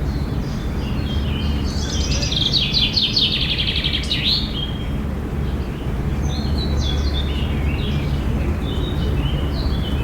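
Small songbirds singing and chirping over a steady low rumble. A fast, rapidly repeated trilling song starts about two seconds in and lasts about two and a half seconds, followed by shorter, scattered chirps.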